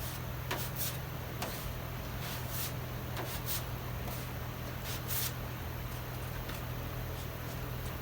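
Filler spreader scraping bondo body filler across a car body panel while laying on the first coat, in short separate strokes, mostly in the first five and a half seconds. A steady low hum runs underneath.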